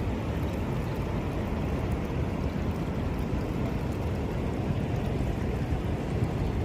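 Sea water washing steadily at the shore: a continuous low rushing noise with no breaks.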